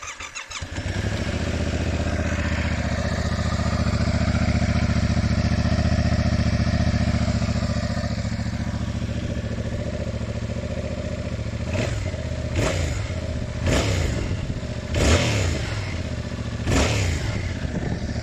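Yamaha MT-07's parallel-twin engine running through an aftermarket Roadsitalia titanium exhaust: it starts up, idles steadily, then is blipped five times in quick succession in the last third.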